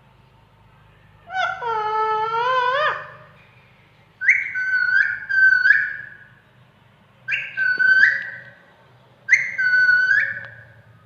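Pet parrot giving whistled calls: one long wavering call, then three shorter calls that each slide down in pitch.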